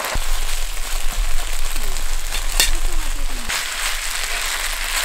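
Rice and sauce sizzling on a hot griddle pan as they are stirred and fried with a spatula, a steady hiss with a sharp tap of the spatula a little past halfway.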